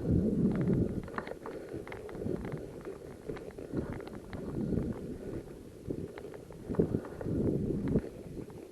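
Footsteps and rustling over rough ground, with irregular small knocks and clicks.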